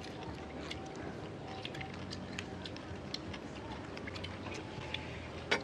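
Eating sounds: many small clicks and taps of chewing and utensils, with one sharper click near the end.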